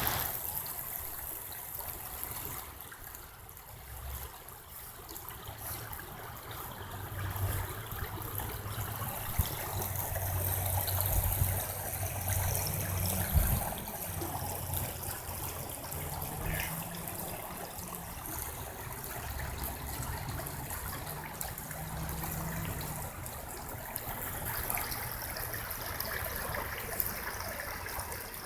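Water running steadily, like a stream or trickle, with a low rumble that comes and goes through the middle.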